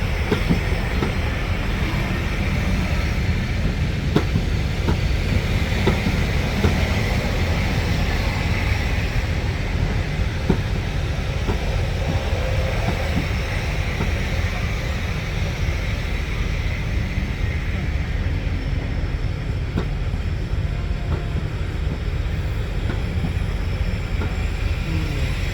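Diesel-hauled heritage train running, a steady low rumble with a few light knocks scattered through it.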